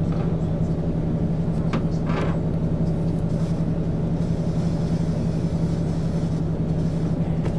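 MAN ÜL 353 intercity bus running steadily on the road, a constant low engine drone with an even hum, broken only by a couple of faint clicks about two seconds in.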